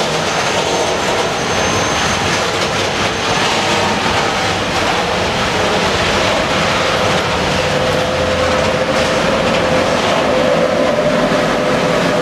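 A train passing close by: the steady, loud rolling noise of its wheels on the rails, with a thin steady tone coming in about halfway through.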